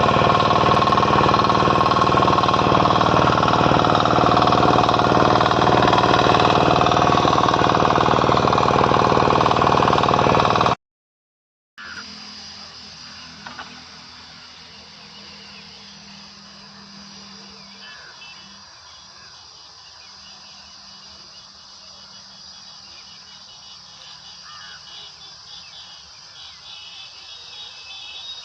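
KisanKraft 418 cc single-cylinder diesel power tiller engine running loudly with a steady rapid beat, which cuts off abruptly about ten seconds in. After a second of silence a much quieter stretch follows with a faint steady low hum.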